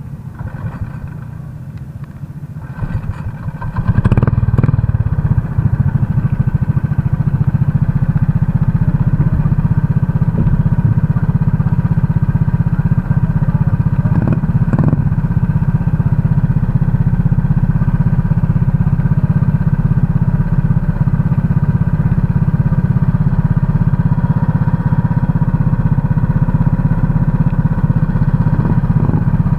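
Go-kart engine heard from the kart itself. It runs quieter for the first few seconds, then opens up sharply at about four seconds and holds a loud, steady drone at full throttle.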